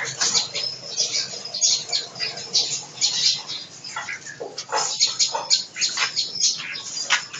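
Small birds chirping and squeaking: many short, high-pitched calls in a quick, irregular run, overlapping one another.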